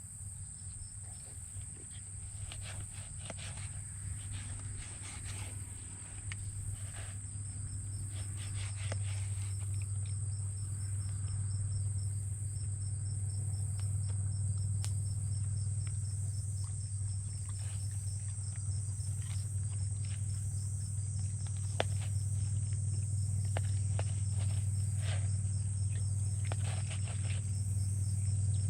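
Insects, crickets by their tags, chirping steadily and high-pitched, over a steady low hum that grows slowly louder, with scattered faint clicks and ticks.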